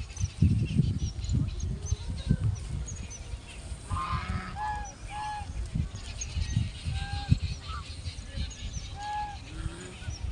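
Geese honking: a handful of separate short calls, two close together about four seconds in and single ones later, over a low rumbling background noise.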